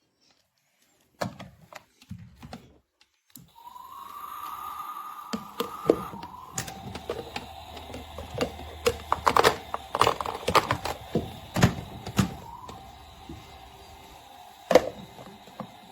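Rapid plastic clicks and knocks, like a toy being handled, over a steady electronic tone that steps down to a lower pitch about three seconds after it starts.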